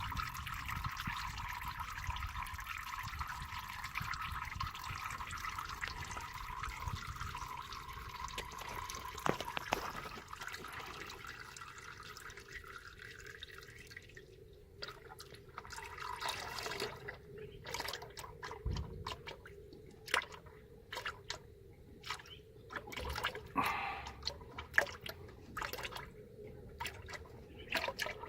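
Engine oil draining from a 6.0 Power Stroke diesel's oil pan into a drain pan: a steady pouring stream that thins about halfway through and turns into separate drips.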